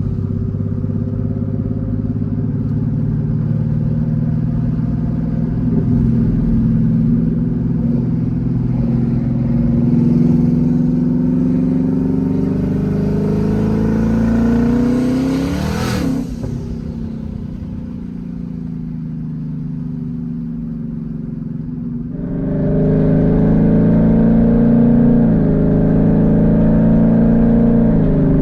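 Twin-turbo Ford Mustang engine, exhausting through open turbo dump pipes, heard from inside the car while driving. Its note climbs for a while, drops sharply about halfway through and runs quieter, then grows louder again near the end as it accelerates.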